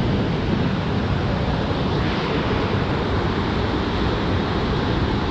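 Steady rushing noise of water, with no breaks or separate events.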